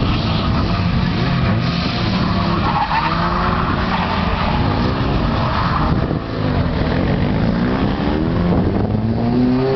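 Car engines revving, their pitch climbing and dropping again and again, over a constant rushing noise.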